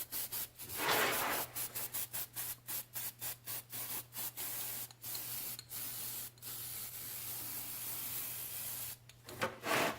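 Aerosol can of aircraft paint stripper spraying: a quick run of short hisses, about three a second, then a steadier hiss lasting a couple of seconds near the end.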